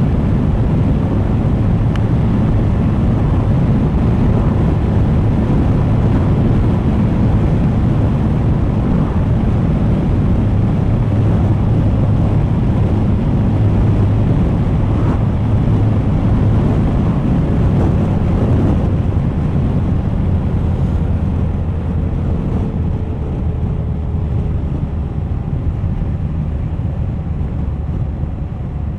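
Suzuki GSX1250FA's inline-four engine running on the move, under heavy wind rush on the bike-mounted camera's microphone. About two-thirds of the way through, the engine note drops lower and the wind eases as the bike slows.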